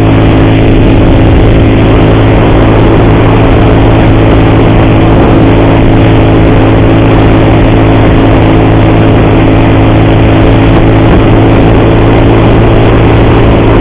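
Motorcycle engine running at a steady cruising speed, with loud wind rush over the microphone.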